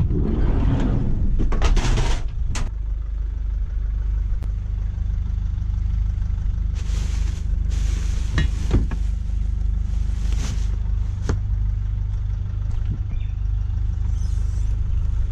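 A vehicle engine running steadily, a low rumble throughout, with a few short clicks and rustling handling noises over the top.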